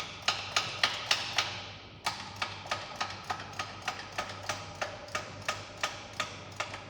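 Steady metallic clicking from a hand tool working the threaded hole: about three or four evenly spaced clicks a second, each with a short ring, with a brief pause about two seconds in.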